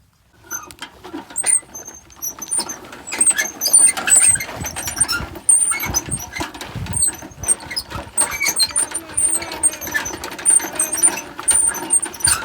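A toy tractor running: a small motor whirring steadily, with many clicks and repeated short high squeaks.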